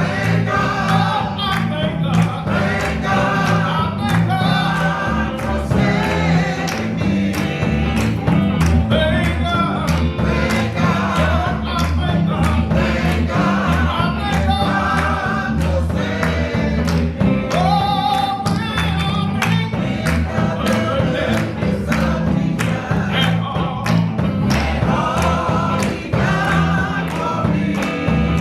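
Church choir singing gospel music with band accompaniment and a steady beat.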